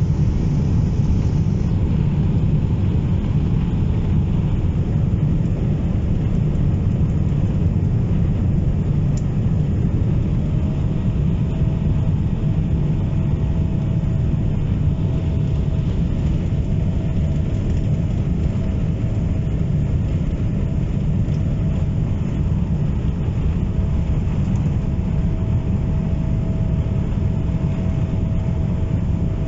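Cabin noise of a Boeing 777-200 during takeoff: a steady, loud low rumble of the jet engines and airframe, with a thin steady whine joining about a third of the way in.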